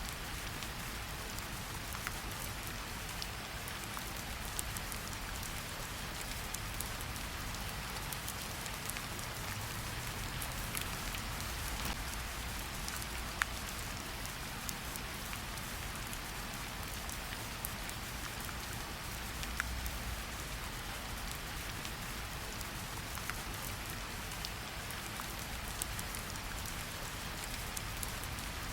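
Steady rain falling, with scattered sharp drop hits standing out against a continuous hiss.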